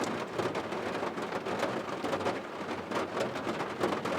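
Steady rain falling, with many close drop hits among the steady hiss.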